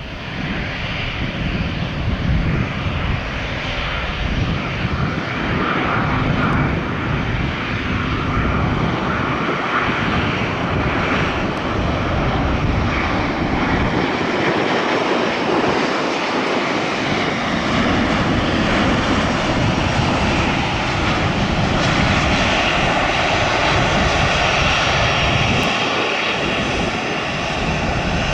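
Jet airliner engines running with a loud, steady roar that swells up at the start. A steady engine whine comes through in the second half.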